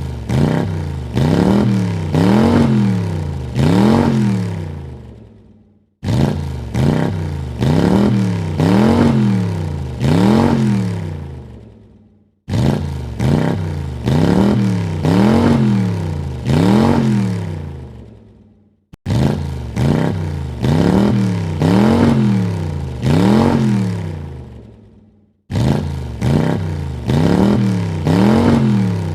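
Car engine revved in quick blips, its pitch rising and falling three or four times and then dying away. The same burst repeats about every six seconds, like a looped sound effect.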